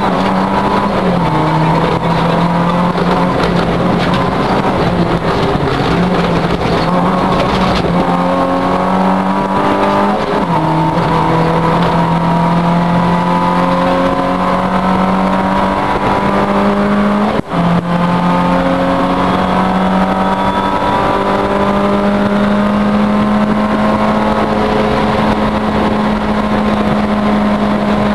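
Citroën Saxo rally car's engine running at high revs, heard from inside the cockpit: the pitch climbs steadily and steps back down at each gear change, with a momentary dropout in the sound about 17 seconds in.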